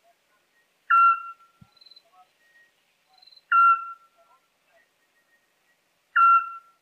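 Eurasian scops owl calling: three short, single whistled notes of the same steady pitch, evenly spaced about two and a half seconds apart.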